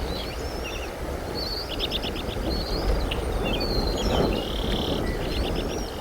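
Bald eagle calls: high chirps and gliding notes, with two quick runs of short piping notes, over a steady low rumble.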